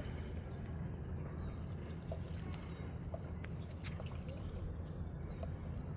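Water sloshing and lapping under a steady low rumble, with a sharp click about four seconds in.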